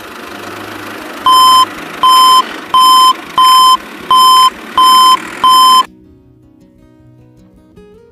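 Seven loud electronic beeps, evenly spaced about one and a half a second, like a vehicle's reversing alarm, over a steady engine-like running sound. Both cut off suddenly about six seconds in, and quiet music takes over.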